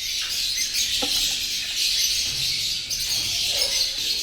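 A flock of caged lovebirds chirping and chattering constantly, many high calls overlapping into a steady din.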